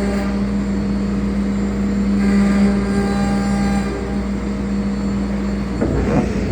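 CNC router running: a steady pitched hum from the spindle over a bed of cutting and machine noise, its loudness swelling and easing a little, with a short irregular rattle near the end.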